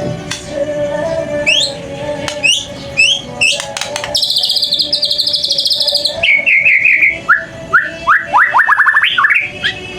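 White-rumped shama (murai batu) singing. It gives a run of short rising whistles, then a rapid trill held for about two seconds, then falling notes and a quick series of upward-sweeping notes near the end.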